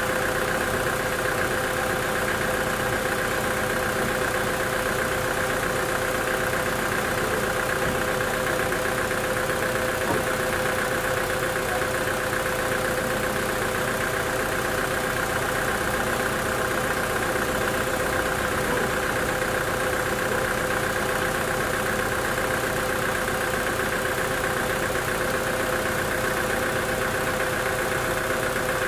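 Sawmill machinery running steadily, a constant engine-like hum with a steady high whine over it and no change in pace.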